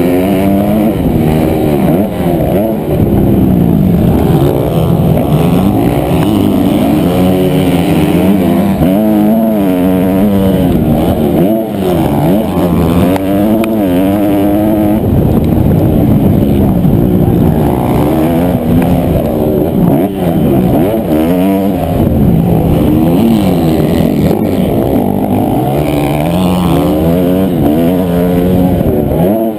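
Honda CRF250R motocross bike's single-cylinder four-stroke engine racing at full effort, its pitch rising and falling every second or two as the throttle is opened and closed and the gears change, with a couple of brief throttle chops.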